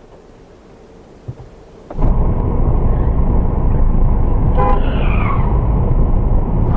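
Loud, steady vehicle road and engine noise that starts abruptly about two seconds in, with a car horn sounding briefly past the middle.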